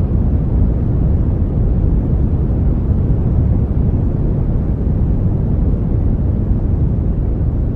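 Steady brown noise: a deep, even rushing hiss weighted toward the low end, with no changes or events.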